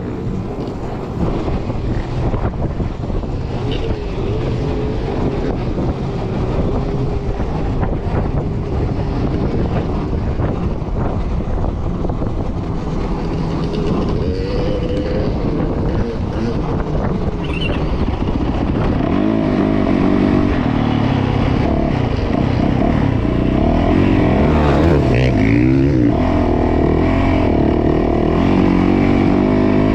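Yamaha YZ450F dirt bike's single-cylinder four-stroke engine running hard off-road, its pitch rising and falling with the throttle. From about two-thirds of the way in it gets louder, with quicker revving swings.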